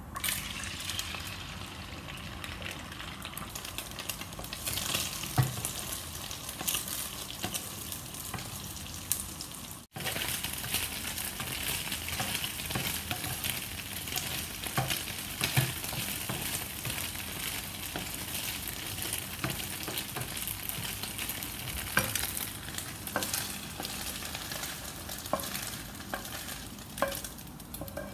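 Cubes of egg tofu sizzling steadily as they fry in hot oil in a non-stick pan, with a wooden spatula scraping and tapping against the pan as they are stirred and turned.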